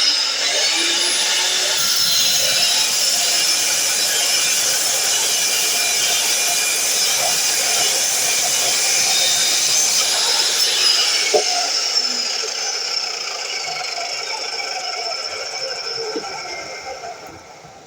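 DeWalt miter saw motor starting up with a rising whine and running steadily for about ten seconds. It then winds down, the whine falling and the noise fading over the last several seconds.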